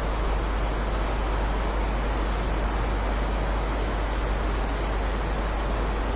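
Steady rain falling: a constant, even hiss with a deep low rumble beneath it and no single drops standing out.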